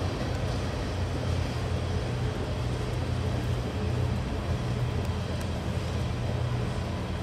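Freight train's diesel locomotives passing, with a steady low engine drone under even rolling noise.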